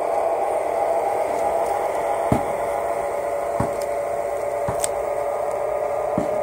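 HO-scale model diesel locomotive's DCC sound decoder playing a steady diesel engine sound through its small onboard speaker, with a few soft knocks at irregular intervals.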